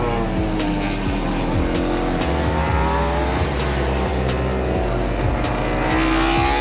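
MotoGP racing motorcycle engine at high revs. Its pitch falls over the first couple of seconds, then climbs steadily again, under background music.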